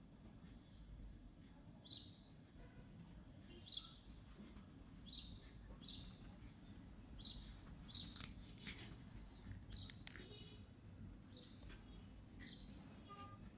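A small bird chirping over and over, short high chirps roughly once a second, with a few faint clicks about two-thirds of the way through.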